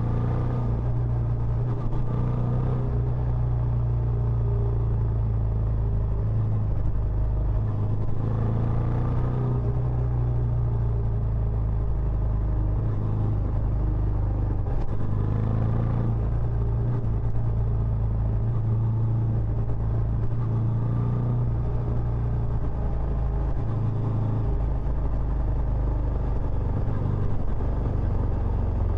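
Benelli Imperiale 400's single-cylinder engine running steadily through its stock exhaust, with a low, even exhaust note.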